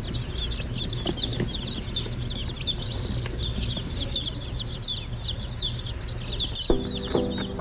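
A group of baby chicks peeping: many short, high-pitched, falling peeps several times a second over a steady low hum. Lower repeated notes come in near the end.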